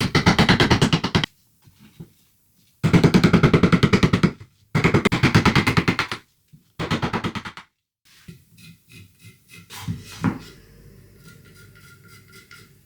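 Hand tools cutting waste wood from a carving block: four runs of rapid, evenly spaced cutting strokes, each a second or two long, then quieter, lighter cutting over the last few seconds.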